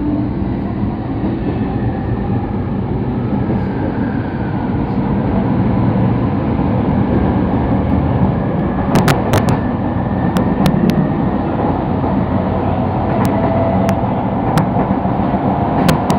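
Sotetsu Line electric train running, heard from aboard: a steady rumble of wheels on the rails, with a motor whine that rises in pitch in the second half and a few sharp clicks.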